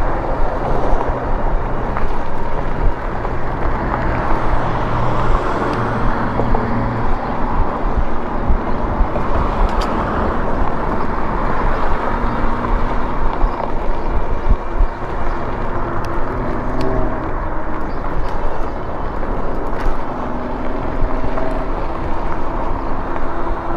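Wind rushing over the microphone of a moving e-bike, mixed with passing road traffic and car engines. A steady low hum runs through the first several seconds.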